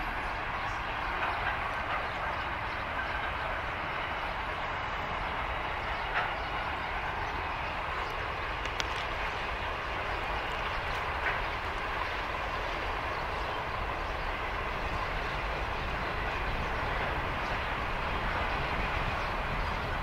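Container flat wagons of a long freight train rolling past at steady speed: continuous wheel-on-rail rumble and hiss, with a few sharp clicks from the wheels.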